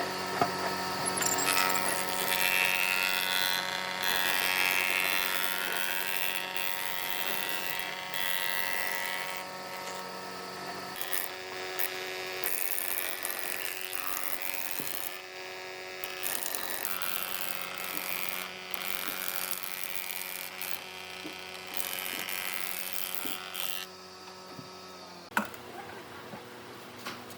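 An electric woodworking machine's motor running steadily, with wood being cut or scraped in uneven spells that are heaviest in the first ten seconds or so. A sharp knock comes near the end.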